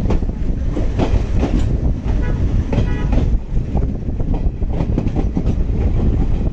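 Passenger train rolling along the track, heard from beside the coach: a steady low rumble with wheels clacking over the rails. A brief high-pitched tone comes a little over two seconds in.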